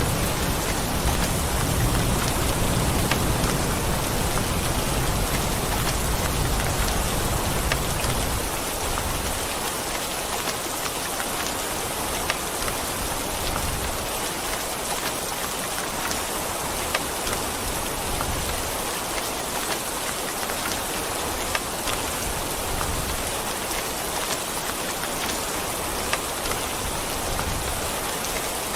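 Steady rain falling, with a low rumble of thunder dying away over the first eight seconds or so and a few sharp drips later on.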